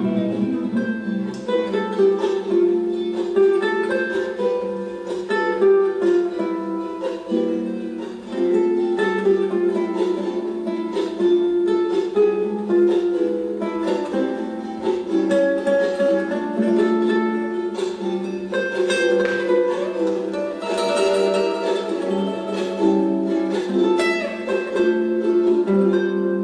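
Music played on a plucked string instrument, a steady run of picked notes and chords.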